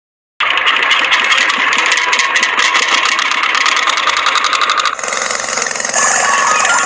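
A small motor starts running after a brief silence, with a fast, even rattle. About five seconds in, the sound changes to a smoother run with a faint whine.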